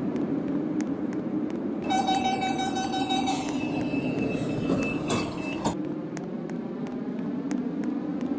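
Madrid Cercanías commuter train running with a steady rumble and faint regular clicks. About two seconds in, a steady pitched tone sounds for about a second and a half. A short burst of noise follows around five seconds in.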